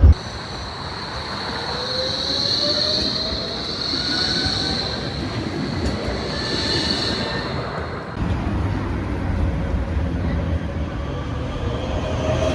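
Tram pulling in, its wheels squealing on the rails with a high, steady screech and some shifting tones for about eight seconds. The sound then changes abruptly to the low rumble of a tram rolling in, with a faint whine that rises slightly near the end.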